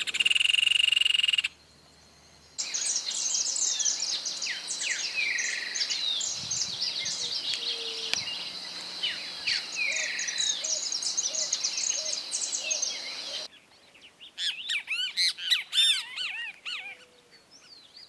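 Birds chirping and calling, many short twitters and whistles overlapping. About two seconds in, the calls break off into near silence for a moment, and near the end they thin out to scattered calls.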